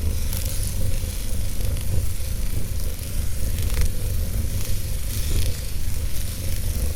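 Wood fire burning in a fireplace: a steady low rumble and hiss, with a few sharp crackles of burning wood, one just before the middle.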